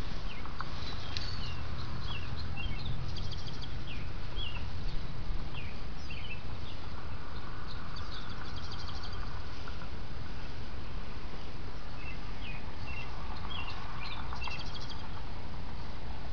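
Several small birds chirping and trilling over and over, with a steady low rumble underneath.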